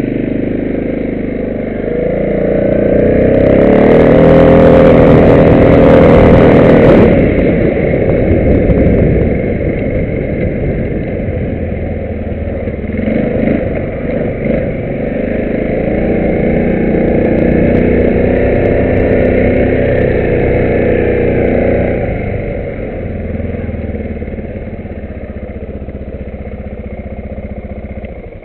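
Arctic Cat 500 4x4 ATV's single-cylinder engine running and revving, with the throttle opening and closing. It is loudest a few seconds in, rises again in the middle, and falls away near the end.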